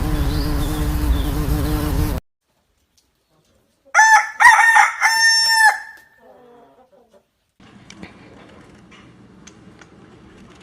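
A rooster crowing once, a loud cock-a-doodle-doo of about two seconds, about four seconds in. Before it there is a loud noisy passage with a low steady hum that cuts off suddenly, and after it a faint background with a few clicks.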